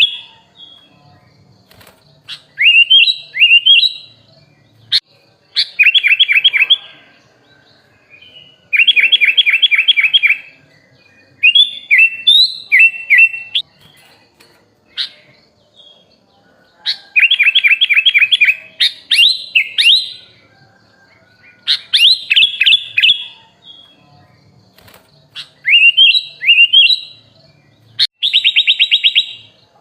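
Sooty-headed bulbul (kutilang) singing a song filled with imitated phrases, in short loud bursts separated by brief pauses. The bursts alternate between rapid runs of sharp chirps and slurred, rising whistled notes.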